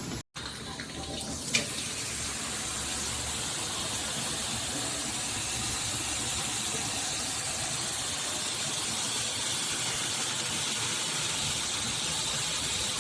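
Filtered shower head spraying water: a steady hiss of running water. A short click about a second and a half in is the loudest sound.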